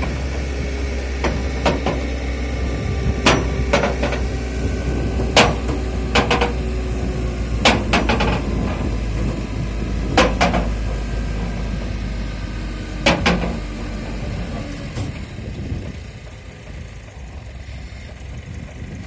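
A vehicle engine running steadily, with a series of sharp metallic clanks and bangs at irregular intervals of one to three seconds, some in quick pairs, while a pickup is loaded onto a recovery truck. The engine sound drops away near the end.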